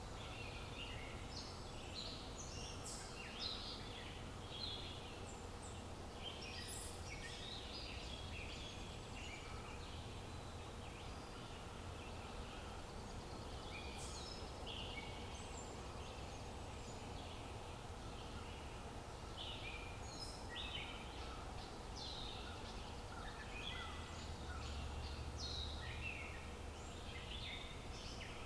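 Several songbirds chirping and singing in short, overlapping phrases over a steady low rumble of outdoor ambience.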